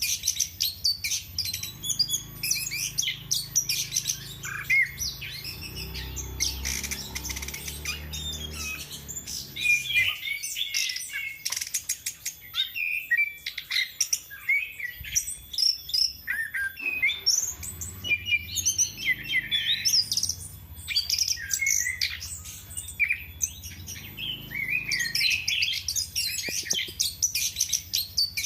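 Chestnut-capped thrush (anis kembang) in full song: a continuous, rapid run of varied high chirps and whistled notes with almost no pauses.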